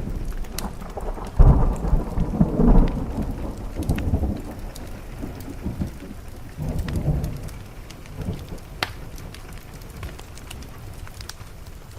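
Thunder rumbling in several rolls over steady rain. The loudest roll comes about a second and a half in and fades toward the end, with scattered sharp ticks and crackles throughout.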